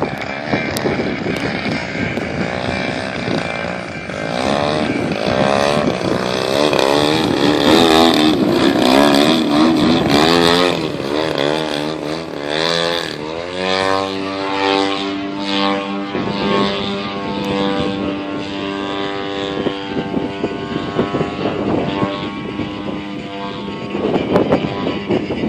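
35% RC Extra 300's DA-120 twin-cylinder gas engine and propeller in flight. The pitch swings up and down repeatedly through manoeuvres, rises about thirteen seconds in, then holds a steady drone.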